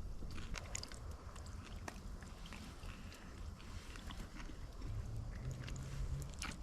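A person chewing and biting food close to the microphone, with small crisp clicks and crunches, and a short low hum near the end.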